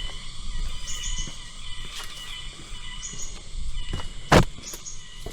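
Tropical forest ambience: a steady high insect drone with short high chirps repeating about once a second. A single sharp knock a little over four seconds in.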